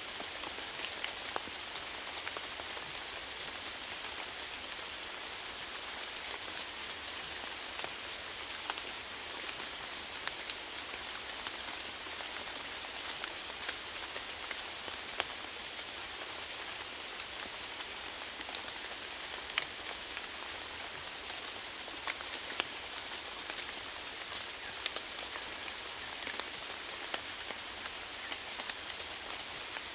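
Steady rain falling on a surface, a constant hiss with many individual drops ticking through it.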